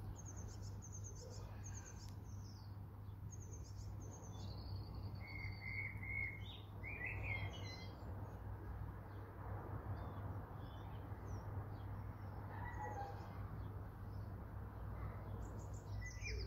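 Small birds chirping and trilling in short, scattered high calls, busiest in the first half, over a low steady rumble.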